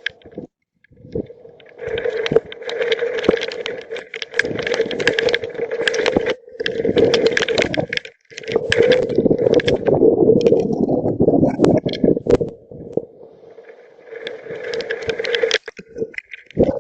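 Severe thunderstorm straight-line winds blowing in strong gusts: a loud rushing noise buffeting the microphone, swelling and easing, with a steady hum beneath it. The sound cuts out briefly a few times.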